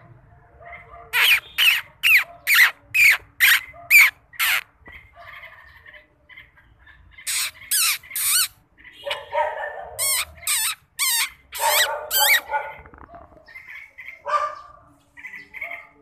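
A bird giving loud, harsh squawking calls in three quick runs (eight in a row, then three, then five), with softer chirps in between.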